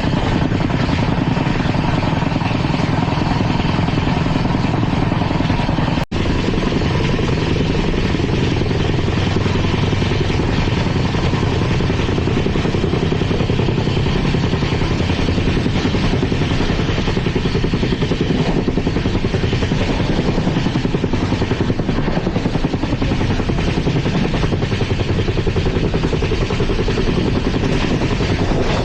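LHB passenger coach running at speed: a steady, loud rumble and rush of wheels on the rails, with wind noise. The sound breaks off for an instant about six seconds in.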